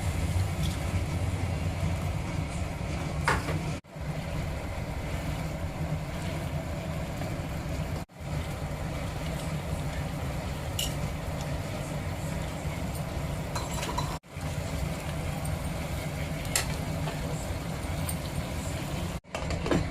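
Steady low hum of kitchen background noise with a few light clinks of metal utensils, cut off briefly four times where the clips are joined.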